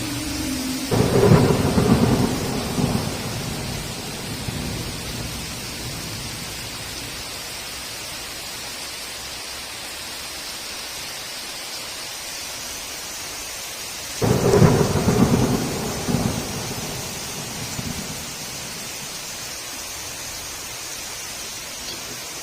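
Steady heavy rain, with two claps of thunder: one about a second in and another about fourteen seconds in, each starting suddenly and rumbling away over two to three seconds.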